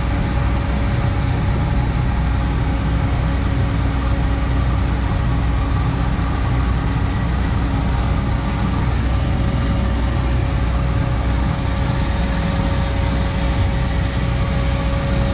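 Heavy diesel engine running steadily at constant speed, with a steady whine over its low rumble.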